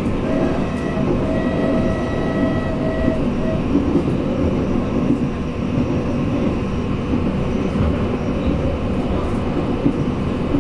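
Tren de la Costa electric train running, heard from inside a passenger car: a steady rumble, with a high whine coming and going in the first few seconds.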